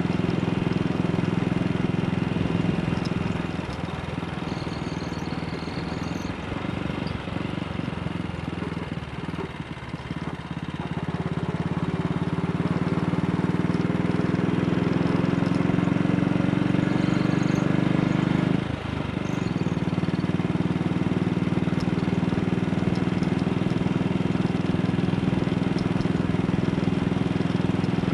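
AJS Model 8 motorcycle's single-cylinder engine running on the move. It eases off for several seconds, then pulls harder with rising pitch until a sudden drop about two-thirds of the way through, as at a gear change, then runs steadily.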